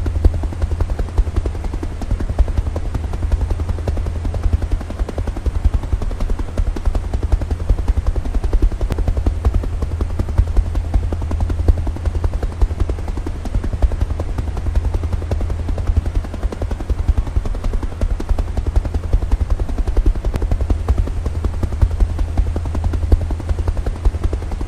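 Helicopter rotor blades chopping in a fast, steady beat, with a deep low thud that carries most of the sound and no change in pace.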